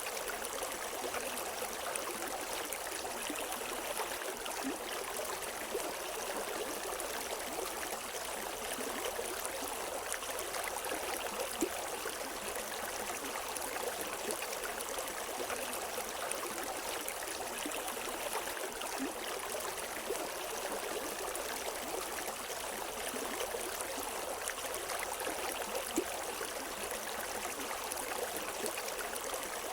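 River water flowing steadily over rocks, an even rushing with small splashes and gurgles.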